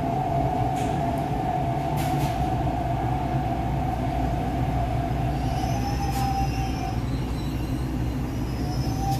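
MTR East Rail Line R-Train electric multiple unit running, with a steady low rumble and a thin steady motor whine that stops about seven seconds in.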